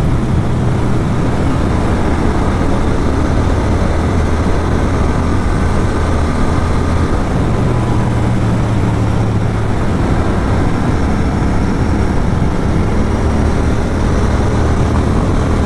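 Motorcycle with an aftermarket Atom exhaust running at a steady highway cruise, its low exhaust drone holding level. Heavy wind rush covers it throughout.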